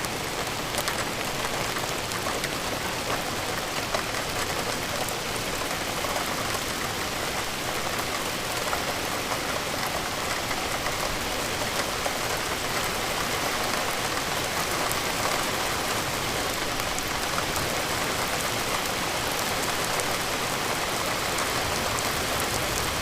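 Steady rain falling and pattering on a surface, an even hiss dotted with fine drop ticks.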